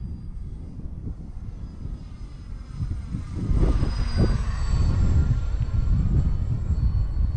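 E-flite Valiant electric RC plane's motor and propeller whining in flight, getting louder and dropping in pitch as it passes about four seconds in. Wind rumbles on the microphone underneath.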